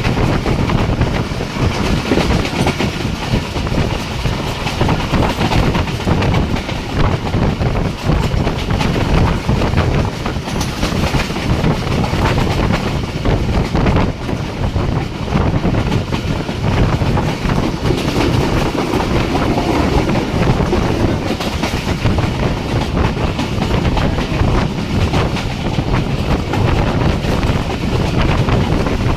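Jaffar Express passenger train running at speed, its wheels clattering steadily over the rail joints with a continuous rumble.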